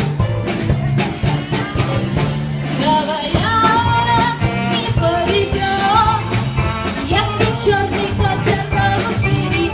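Jazz orchestra playing an upbeat rock-and-roll song, with a steady drum-kit beat; a melody line comes in about three seconds in.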